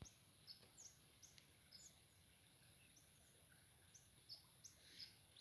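Faint, scattered short bird chirps over a steady high hiss.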